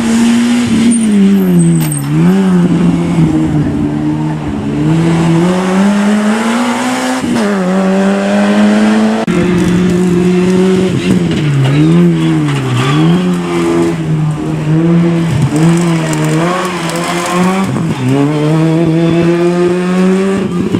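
Rally car engine revving hard on a special stage. Its pitch repeatedly dips as the driver lifts off and climbs again under acceleration, with one long climb through the revs about six seconds in.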